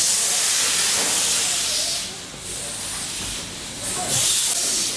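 Steam locomotive letting off steam with a loud hiss that starts suddenly, eases after about two seconds, and comes back in a short loud burst near the end.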